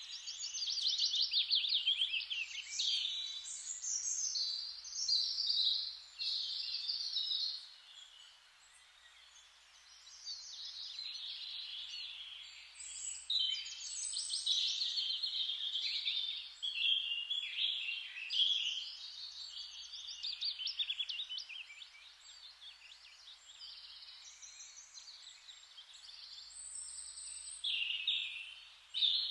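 Songbirds singing in a dense chorus of quick, trilling and chirping phrases that overlap one another, with a short lull about eight seconds in.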